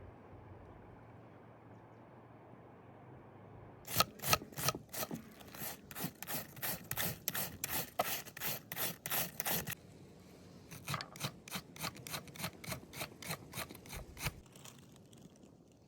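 Rapid scraping strokes, about four a second, in two runs: one of about six seconds starting about four seconds in, then after a short pause another of about three and a half seconds.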